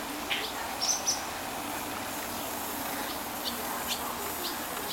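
Backyard birds calling in short, sharp chips, one every half second or so, from birds that are agitated and swooping about the yard. A faint steady low hum lies under them.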